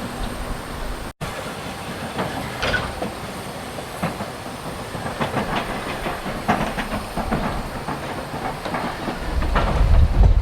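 Snowdon Mountain Railway rack steam locomotive and its carriage on the move, giving a string of irregular clanks and clicks over a faint hiss. The sound cuts out for an instant about a second in.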